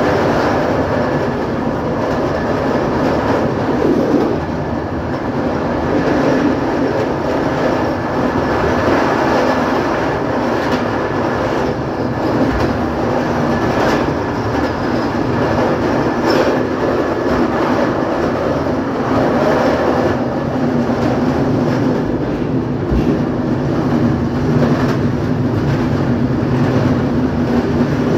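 A moving train heard from on board: steady running noise of wheels on the rails, with a few faint knocks along the way.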